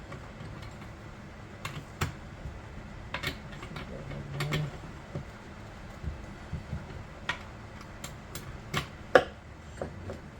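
Irregular light clicks and taps of a chainsaw and hand tools being handled on a workbench, with one sharper knock near the end.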